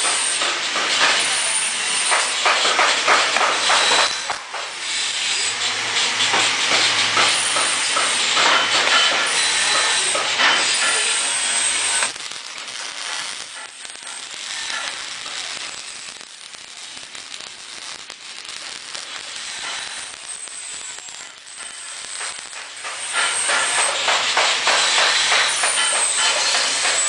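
Welding arc crackling and hissing in a long run, dropping to a quieter hiss about halfway through, then starting up strongly again near the end.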